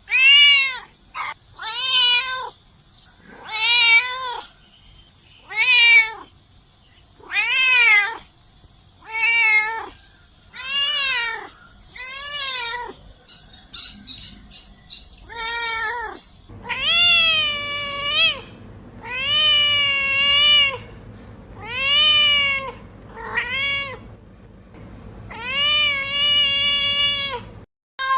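Domestic cat meowing over and over, about one meow every two seconds. The meows are short at first; past the halfway point they become longer, drawn-out meows over a low steady hum.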